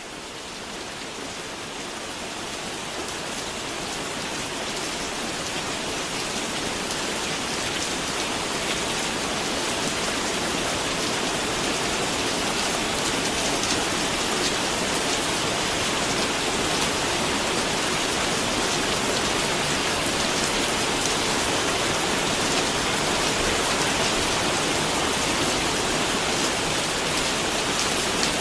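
Rain falling steadily, with faint ticks of single drops, fading in over the first ten seconds or so.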